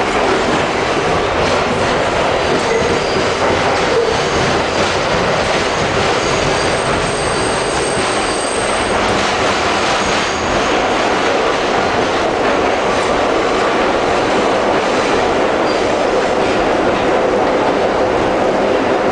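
Inside a Budd-built 1963 R32 subway car running at speed: a steady loud rumble and rush of wheels on rail, with a thin high wheel squeal around the middle and occasional clacks over rail joints.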